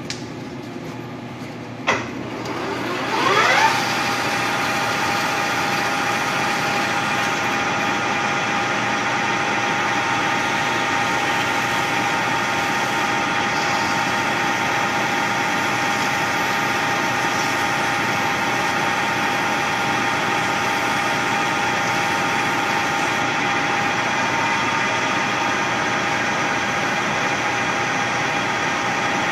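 A machine tool's electric motor switched on with a click about two seconds in, whining up in pitch for about a second, then running at a steady speed with a high whine.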